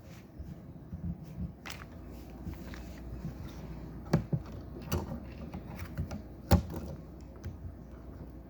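Plastic Lego pieces being handled during a build: a handful of separate sharp clicks and small knocks, the loudest about two-thirds of the way through.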